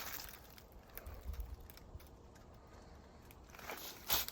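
Faint footsteps with scattered small clicks and crunches, over a low rumble, and a louder knock near the end.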